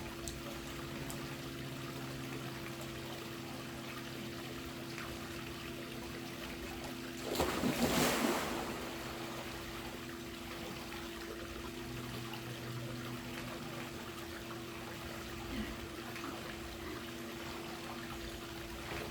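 Swimming-pool water trickling and lapping over a steady low hum, with one louder splash about seven seconds in that lasts about a second and a half.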